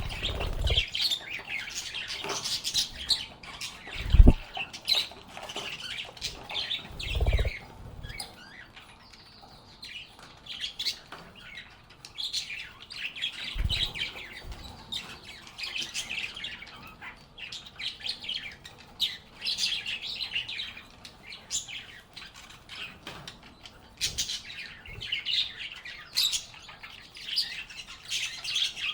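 A group of lovebirds chirping and chattering in quick, high, overlapping calls that come in bursts, with a quieter lull about a third of the way through. Three short low thumps break in, the loudest about four seconds in, the others shortly after and near the middle.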